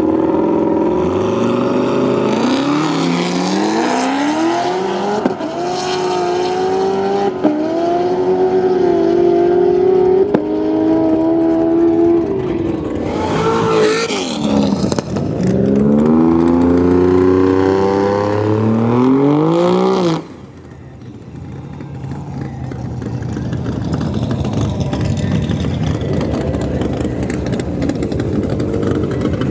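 Drag race car engines at full throttle down the strip, the pitch climbing and dropping back several times as the cars go up through the gears. The sound cuts off suddenly about two-thirds of the way in, leaving a quieter engine sound that slowly builds.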